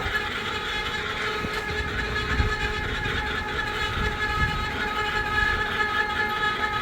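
A steady mechanical drone: several steady tones held unchanged over an uneven low rumble.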